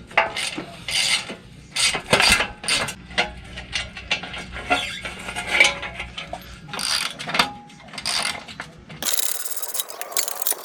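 Work on a boat trailer's parts: irregular clanks, scrapes and ratchet-like clicking as parts are handled and fitted. A steady hiss lasts about a second and a half near the end.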